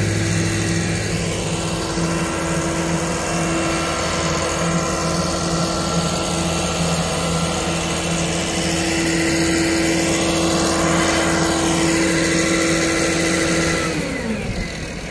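A heavy diesel engine on a construction machine runs steadily with a constant hum and a high whine over it. Near the end the whine drops in pitch and the sound eases off.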